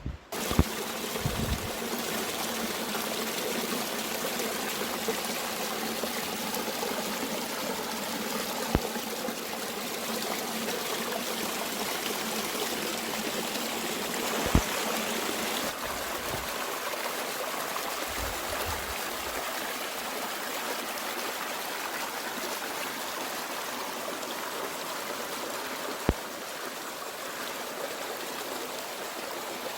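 A mountain stream flowing and trickling, a steady rush of water that starts abruptly about half a second in. A few sharp clicks stand out over it, and there are brief low rumbles.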